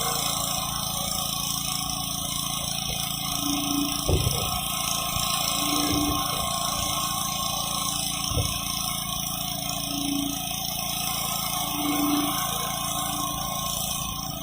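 Gas-engine pressure washer running steadily while its high-pressure water jet hisses against concrete, with a few short knocks about a third and a half of the way through.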